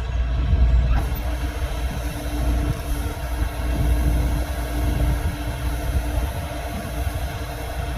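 Kubota DC-105X combine harvester's diesel engine running steadily with a deep low rumble; about a second in, a steady hum and a high hiss join it.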